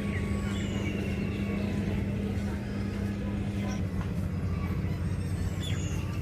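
Steady low motor rumble with a droning hum that cuts out about four seconds in, and birds chirping over it.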